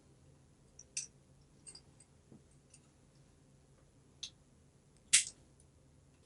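A few faint, separate clicks and taps from small parts and hand tools being handled on a workbench, with one sharper, brief snip-like click about five seconds in.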